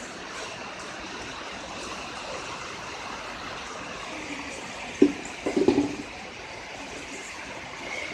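Steady rain falling, an even hiss of water. A few short, louder sounds break in about five seconds in.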